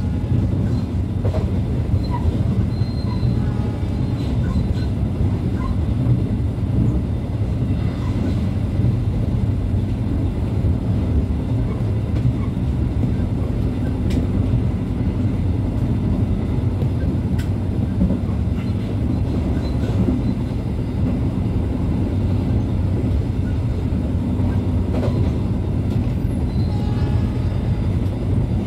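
Argo Lawu passenger train running along the track, heard from on board: a steady rumble of wheels on rails. A faint high wheel squeal comes a few seconds in and again near the end.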